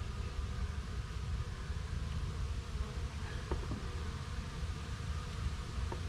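Honeybees buzzing in a steady swarm around a beehive, with a few faint clicks about three and a half seconds in and again near the end.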